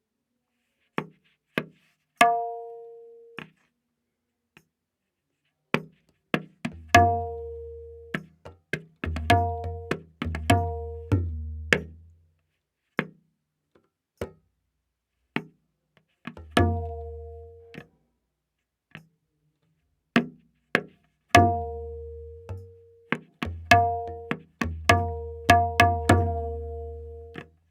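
Tabla playing a very slow vilambit ektaal theka, the dayan tuned to A#. Sparse strokes come in slow phrases with gaps between them: ringing strokes on the dayan, some joined by deep, sustained bayan strokes.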